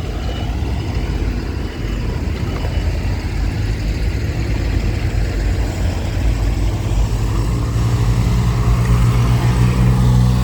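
Motor vehicle engine noise: a low, steady hum that grows louder over the last few seconds.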